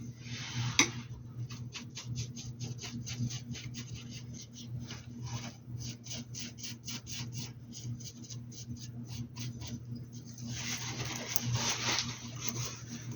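Paintbrush dabbing and stroking on the hat: one sharp click about a second in, then a long run of short, even taps at about four a second, and a denser rubbing stretch near the end. A steady low hum runs underneath.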